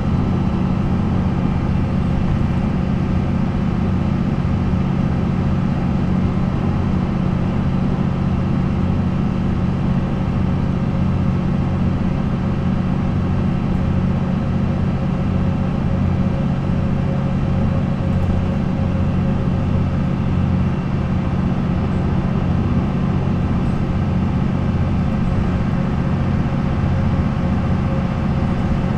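MAN NL 263 city bus's D28-series diesel engine running at a steady, unchanging speed.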